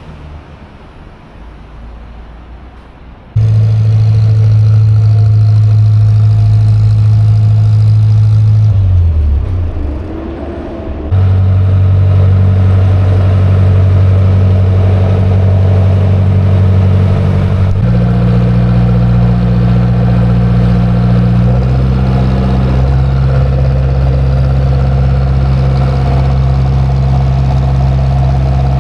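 A ferry's diesel engine running loud and steady, starting suddenly a few seconds in. About nine seconds in it slows and drops in pitch, goes quieter briefly, then picks up again and steps up in speed twice near the end.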